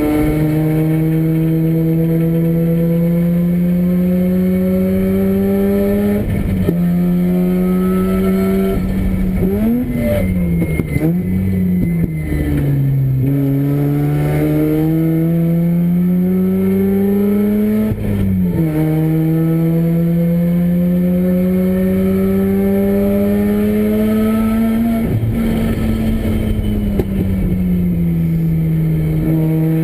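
Renesis two-rotor rotary engine in a 1980 RX-7 race car running hard on track. The revs climb slowly and steadily, drop sharply on upshifts about 6 and 18 seconds in, fall and rise several times between about 10 and 13 seconds, and ease down again near the end.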